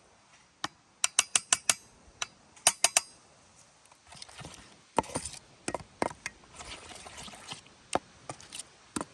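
A utensil clinking and scraping against a bowl while mixing mashed egg yolk, grated horseradish and a little kvass into a paste. Quick runs of sharp ticks in the first few seconds, then a softer rasping stir with scattered clinks.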